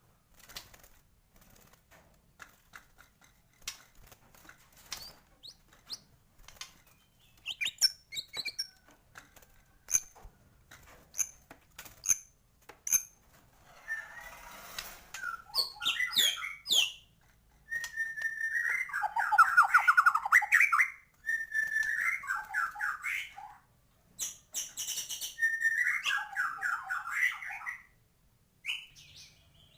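White-rumped shama (murai batu) singing a varied song full of mimicked calls. Scattered short chirps, whistles and clicks in the first half give way to several long, loud warbling phrases in the second half.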